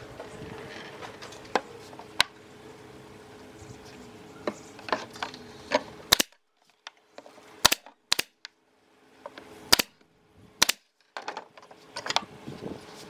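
Irregular sharp knocks and clicks of woodworking tools handled against wood, over a steady low hum. The hum cuts out for about five seconds in the middle, leaving the knocks on their own.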